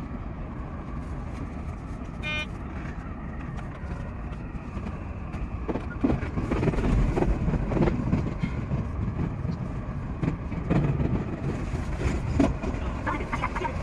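Odakyu 5000-series electric train running noise heard from the driver's cab as it pulls away and gathers speed. Rumble and rail knocks grow louder from about six seconds in. A brief pitched toot sounds about two seconds in.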